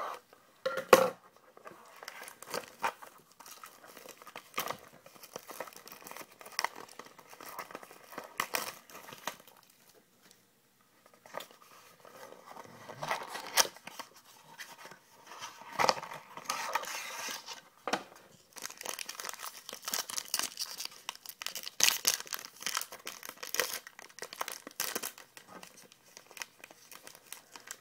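Wrapping on a sealed trading-card box being torn open, crinkling, with scattered sharp clicks and rustling as the box and cards are handled.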